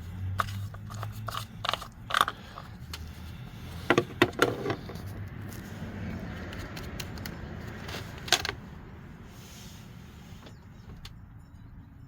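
Clicks, knocks and scrapes of a plastic motor-flush bottle and the oil filler cap being handled at a car's open engine bay, the engine off, with a last sharp knock about eight seconds in before it goes quieter.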